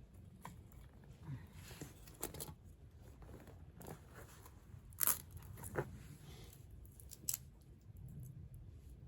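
Wood campfire crackling, with irregular sharp pops and snaps, the loudest about five seconds in and again a little after seven seconds.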